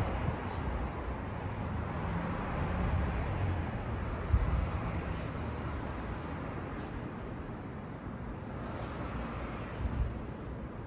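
Steady rushing outdoor background noise with uneven low rumbling thumps, like wind buffeting the microphone.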